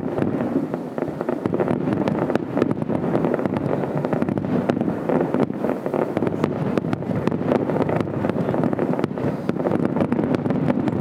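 Fireworks display: a dense, continuous crackle of many rapid pops and small bangs.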